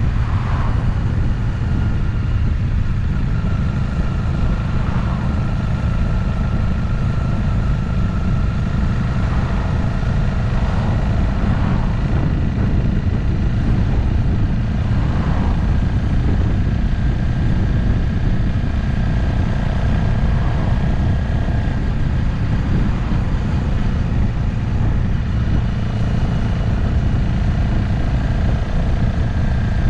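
Motorcycle engine running at a steady cruise, with a few brief swells in pitch, under a constant rush of riding wind on the action camera's microphone.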